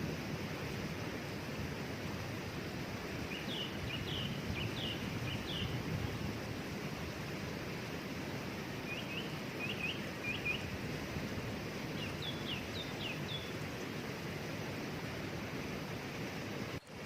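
Steady rush of a waterfall with a small bird singing over it in three short bursts of quick, high chirps. A brief dropout comes near the end.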